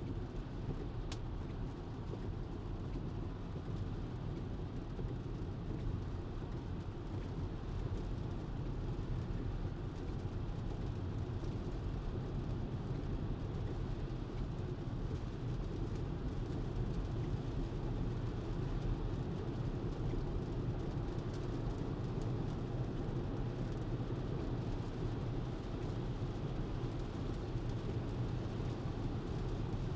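Steady tyre and road noise of a Tesla electric car cruising at highway speed on a wet road.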